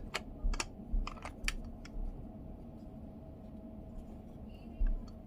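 Sharp clicks and taps of small plastic parts being handled on a work surface, several in the first two seconds and a few more near the end, some with a soft low bump. These are the parts of a car's multimedia control knob during teardown and reassembly.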